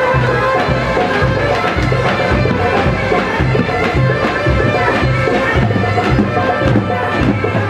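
Loud traditional halay dance music: a reedy wind melody holding steady notes over a regular drum beat.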